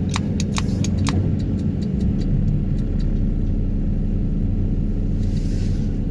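Excavator engine and hydraulics running steadily with a low hum, with a series of sharp clicks over the first three seconds and a brief hiss near the end.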